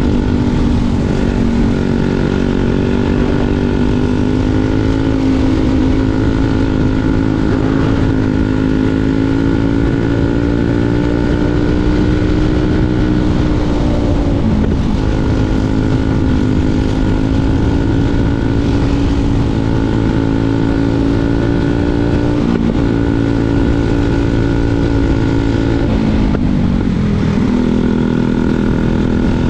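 Briggs & Stratton 206 single-cylinder four-stroke kart engine running hard at speed, heard onboard. Its pitch dips briefly about halfway through, again a little later and once more near the end as the kart slows for corners, then climbs back as it accelerates.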